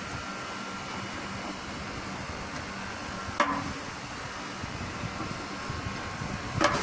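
Steady mechanical hum in the background, with a sharp click and a short ring about halfway through and another right at the end, as parts are handled.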